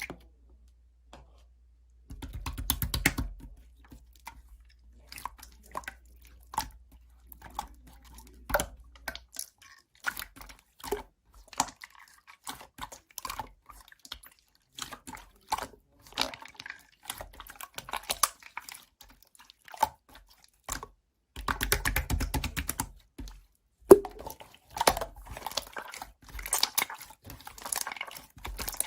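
Close, irregular crisp clicks and crunching with no steady rhythm, with two denser bursts, one about two seconds in and one near the end.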